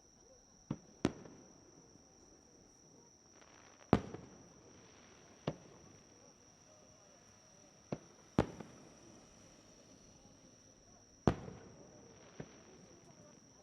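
Fireworks bursting in the sky: about eight sharp bangs at irregular intervals, the loudest near the start, about four seconds in, about eight seconds in and about eleven seconds in, some trailing off in a short crackling fizz. A steady high-pitched insect trill runs underneath.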